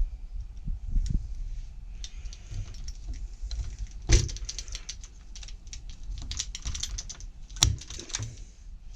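Metal door-lock hardware being handled: a run of small clicks and rattles, with two sharper knocks about four and seven and a half seconds in.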